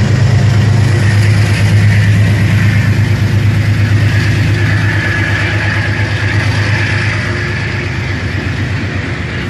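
Diesel engine of a Metro-North GE P32AC-DM locomotive running with a steady, low, pulsing drone as the locomotive moves slowly. It is loudest a second or two in, then fades gradually as it pulls away.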